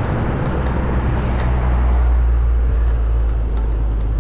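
Street traffic noise with a deep rumble that swells about two seconds in and eases toward the end.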